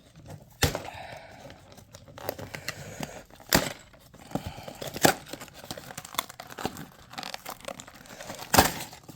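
Toy blind-box packaging being torn open and handled: crinkling and tearing of plastic and paper, with several sharp cracks through it.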